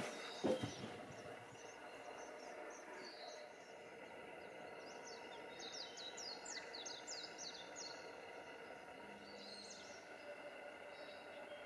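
Songbird singing a quick series of high, sweeping notes a few seconds in, over a quiet outdoor background. Two sharp knocks sound about half a second in.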